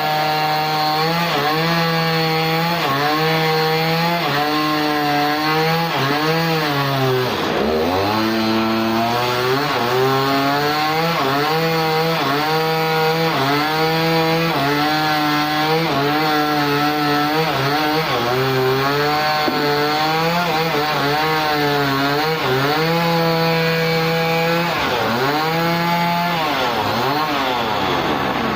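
Motorized sawmill saw cutting a dense log, its motor running with a steady pitched tone that sags repeatedly as the blade bites. It drops deeply about seven seconds in and again near the end, then recovers.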